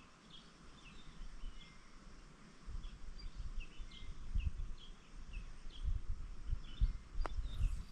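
Small birds chirping in short, high, repeated calls, over a low uneven rumble, with a single sharp click a little before the end.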